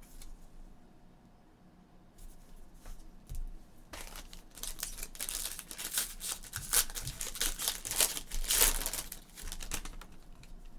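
Crinkling and tearing of trading-card packaging being opened and handled, a run of rustling that starts about four seconds in and is loudest near the end.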